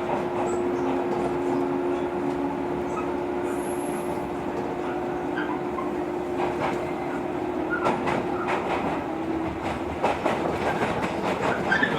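JR 115 series electric train running, heard from inside the carriage: a steady hum with a held tone that fades out a little after nine seconds. Wheels knock over the rail joints, the clatter getting busier near the end.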